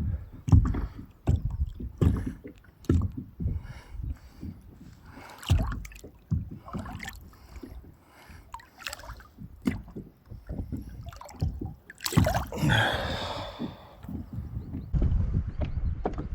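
Water sloshing and gurgling against the side of a small boat, with gusts of wind buffeting the microphone and scattered knocks. About twelve seconds in, a louder, longer rush of noise stands out.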